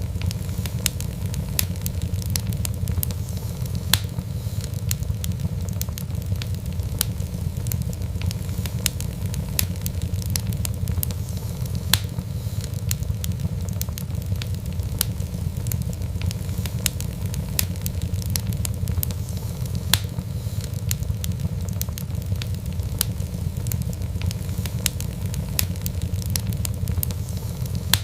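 Fireplace fire crackling: a dense run of small snaps and clicks over a steady low roar, with a sharper pop about every eight seconds.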